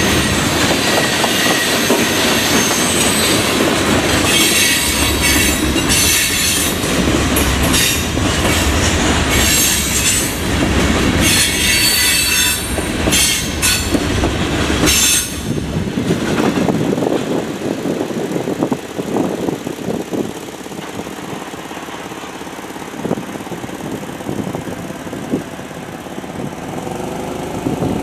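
Freight train cars rolling past, steel wheels squealing on the rail and clacking over the joints. The squealing comes and goes through the first half and stops about 15 seconds in, after which the rolling noise is quieter.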